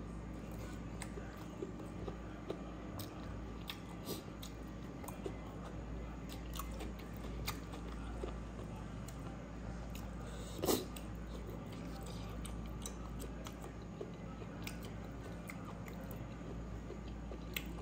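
A man chewing pork intestine and rice with his mouth open: scattered wet clicks and smacks, with one louder smack about eleven seconds in. A steady low hum runs underneath.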